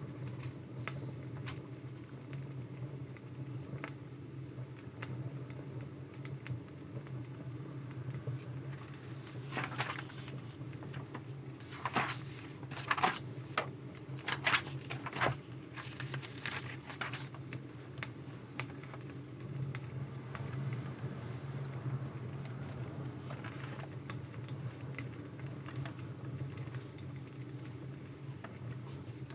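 Burning firewood crackling, with irregular sharp pops and snaps over a steady low hum. A run of louder, longer noises comes about ten to sixteen seconds in.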